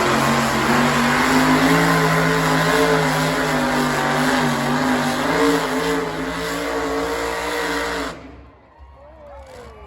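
Methanol-burning pulling truck engine of about 2,500 horsepower running at full throttle while pulling a sled, a loud, dense engine sound whose pitch wavers slightly. It cuts off abruptly about eight seconds in.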